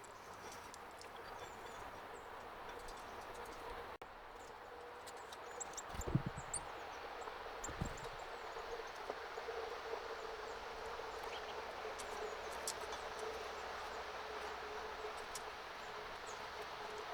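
Outdoor background noise with short, high bird chirps scattered through it and a faint steady hum. There are two dull low thumps, about six and eight seconds in.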